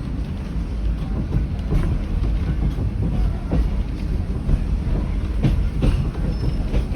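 Heritage passenger train carriage, a 1920s Evans car, rolling along the track with a steady low rumble. Several irregular knocks come from the wheels going over rail joints.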